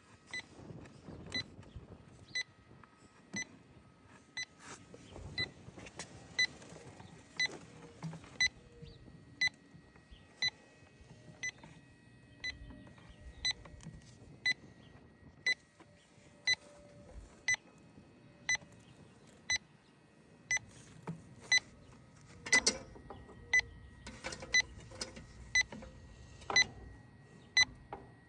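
Electronic refrigerant leak detector beeping steadily about once a second: the slow, even idle rate, with no speed-up that would signal a leak on the lines. A brief clatter of handling about two-thirds of the way through.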